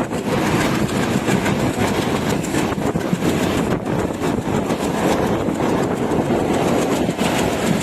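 A moving train running on its rails: a steady, loud rumble with faint irregular knocks from the wheels and carriages.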